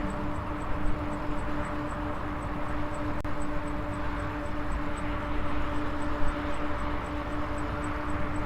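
Maxtron Mule folding e-bike on the move: the electric motor's steady whine over rumbling wind and tyre noise, with faint high ticking about four times a second.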